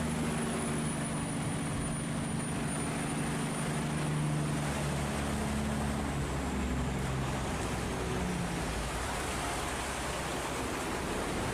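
A boat engine drones low and steady over the rush of fast-flowing water and wind; the engine hum fades out a little past halfway, leaving the water and wind.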